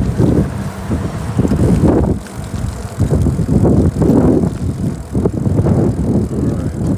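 Wind buffeting the microphone of a phone carried on a moving bicycle, a loud low rumble that swells and dips in uneven gusts.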